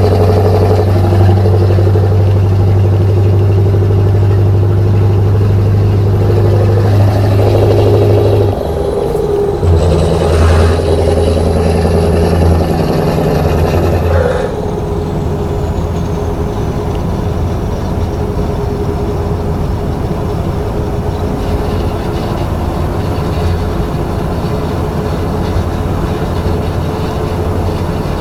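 Scania 143's 14-litre V8 diesel pulling under load on a climb, with a low, even engine note. It breaks off briefly about a third of the way in, as at a gear change, and comes back with a short surge. About halfway through the engine note drops away and the rest is a quieter, steadier running sound.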